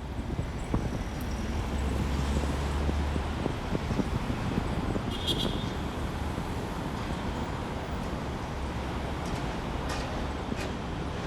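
City street ambience of passing road traffic, with strong wind buffeting the phone's microphone in a low rumble.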